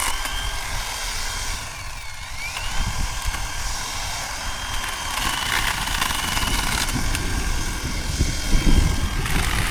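Zhipu 48V cordless electric chainsaw running with a high, steady motor whine. About two seconds in the pitch sags and recovers, as it does when the chain takes load in wood, with chain and chip noise underneath.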